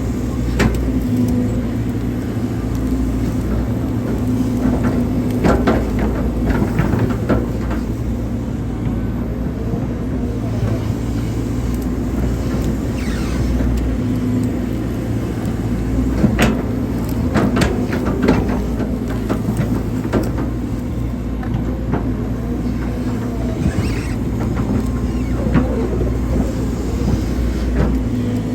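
Hydraulic excavator's diesel engine running steadily under work, with scattered sharp knocks and clanks as the machine digs.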